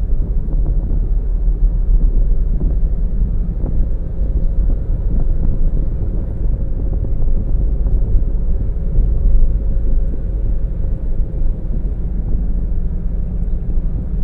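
Car driving at a steady pace: a continuous low rumble of engine and road noise, with a faint steady hum through most of it.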